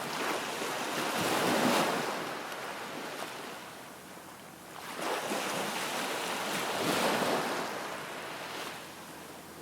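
Waves washing in shallow water, an even rush that swells up twice, about five seconds apart, and eases off between.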